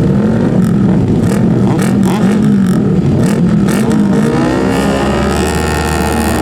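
Superbike engines racing at high revs, the pitch wavering up and down, with one bike accelerating and its note climbing steadily from about halfway through.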